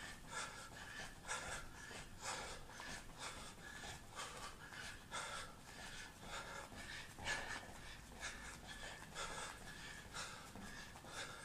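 A person breathing hard in a quick, even rhythm of short, sharp exhalations, about two to three a second, while punching through a fast boxing round.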